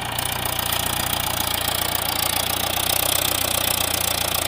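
Mahindra 415 DI tractor's four-cylinder diesel engine running steadily with an even low rumble.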